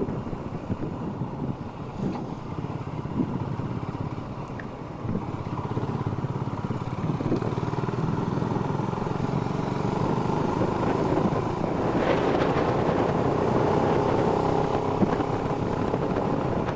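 Motorcycle engine running at road speed while riding, louder and steadier from about five seconds in.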